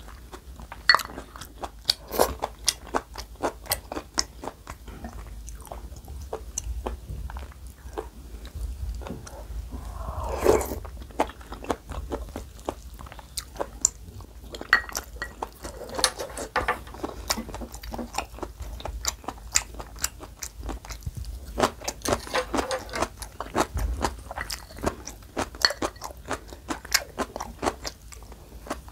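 Close-miked eating of rice cake and dumpling soup: wet chewing and sharp mouth clicks all the way through, with a few longer slurps of broth from a wooden spoon.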